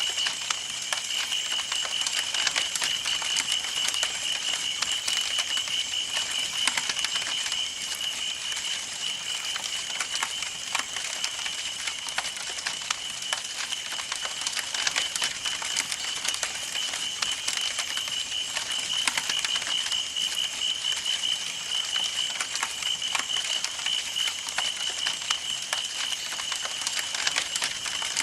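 Campfire burning, with wood crackling and popping in quick irregular snaps over a soft hiss. A steady, high, pulsing trill sounds underneath the crackling.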